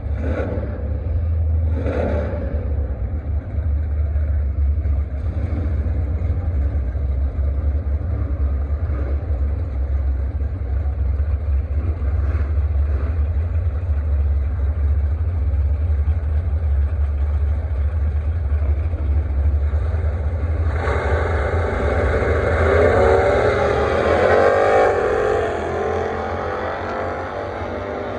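A steady low rumble, then about 21 seconds in a drag car running hard down the strip, its engine loud for several seconds before fading away.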